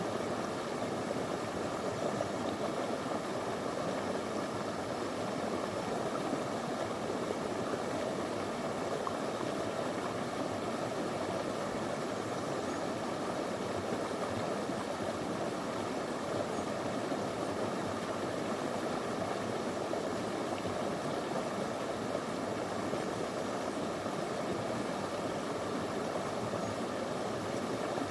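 Small stony river flowing: a steady rush of water over stones.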